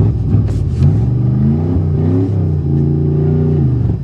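Pontiac car engine revving in drive under load: it rises in pitch, eases off, revs up again and holds, then drops back near the end.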